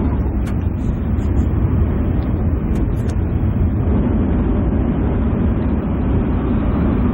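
Steady low rumble of a train running on the line, with a few faint ticks in the first half.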